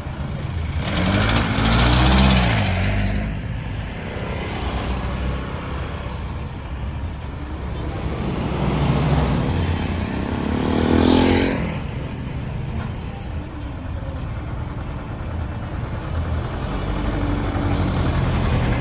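Road traffic with a steady low rumble. Two motor vehicles pass close by, one about a second in and another around ten seconds in, each engine note swelling and then fading as it goes past.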